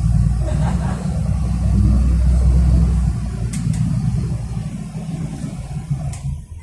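City bus under way, heard from inside the cabin: a heavy low engine and road rumble, strongest for the first three seconds and then easing off, with a couple of faint clicks or rattles.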